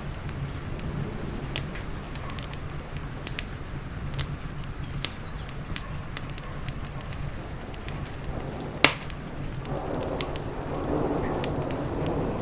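Wood fire crackling with frequent sharp pops over a steady low rush of heavy rain, with one loud pop about nine seconds in. Near the end a deep rumble of thunder swells.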